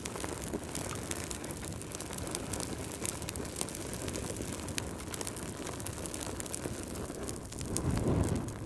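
Fireplace fire crackling: a steady hiss and low rumble with many small sharp pops, swelling louder for a moment near the end.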